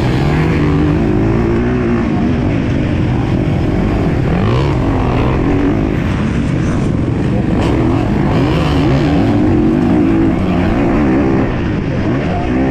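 MX2 motocross dirt bike engine revving hard, its pitch climbing and dropping again and again as the rider throttles on and off and shifts around the track.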